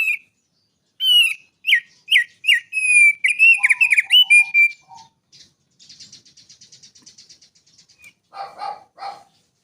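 A songbird singing: a run of loud, clear whistled notes, most of them sliding down in pitch. These give way to a faint, fast buzzy trill, and then to a few harsher chattering notes near the end.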